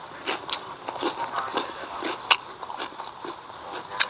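A person chewing a mouthful of food with irregular mouth clicks, one sharper click a little past halfway.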